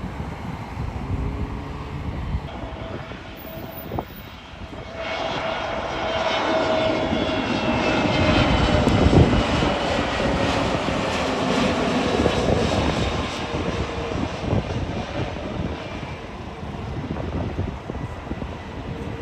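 A jet airliner's engines passing by. The noise swells suddenly about five seconds in, is loudest a few seconds later with whining tones that slowly fall in pitch, then fades away. Low rumble and wind on the microphone underneath.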